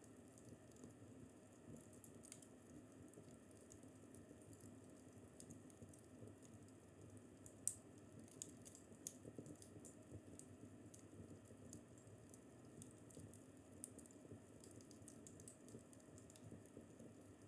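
Faint wood fire crackling in a fireplace, with irregular small pops and snaps over a low steady hiss; one sharper pop comes about eight seconds in.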